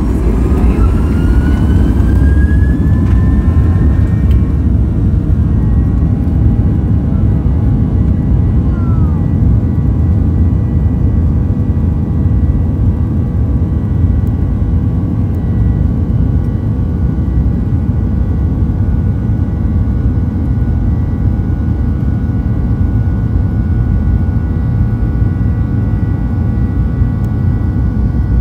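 The CFM56 jet engines of a Boeing 737-800, heard from inside the cabin, spooling up to takeoff thrust. A whine rises in pitch over the first few seconds, then settles into a steady whine over a loud, continuous rumble as the takeoff proceeds.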